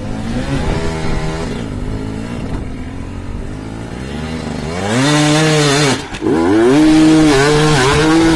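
Dirt bike engine revving: steady at first, then rising sharply about halfway through and held high with small wavers under the throttle, easing off briefly once before climbing again.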